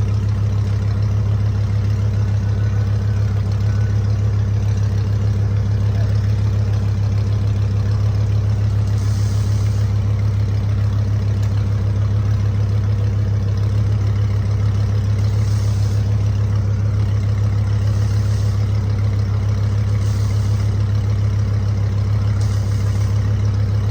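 Lamborghini engine idling steadily through its exhaust, a constant low drone with no revving.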